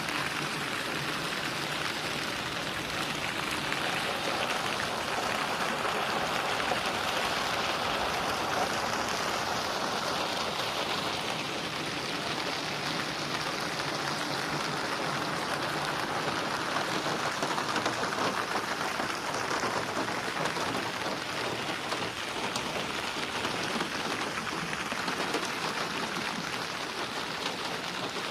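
Steady rain falling and splashing on a surface, an even hiss of many drops with no thunder.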